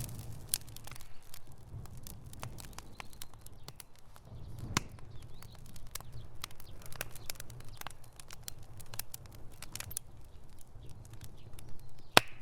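Wood fire in a fireplace, crackling with irregular sharp pops over a low steady rumble of the flames. One louder pop comes near the end.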